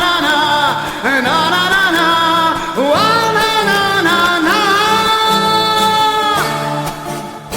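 Wordless singing in a song outro: a voice sings gliding, then long-held notes over a low instrumental backing, the last held note stopping about six seconds in.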